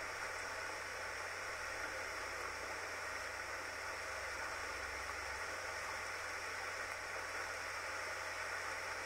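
Light rain falling: a steady, even hiss with no distinct drops standing out, over a faint low rumble.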